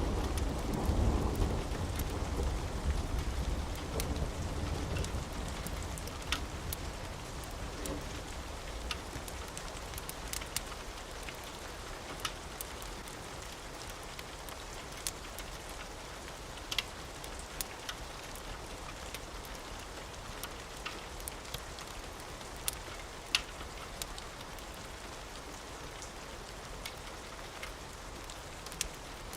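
Steady rain with a low rumble of thunder that fades away over the first several seconds, and scattered sharp crackles from a wood fire.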